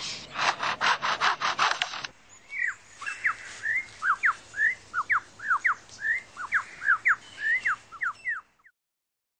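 Superb lyrebird mimicking foresters' chainsaws as rapid rasping strokes, about four a second, for about two seconds. It then breaks into a quick run of short whistled notes that sweep up and down, and stops about eight and a half seconds in.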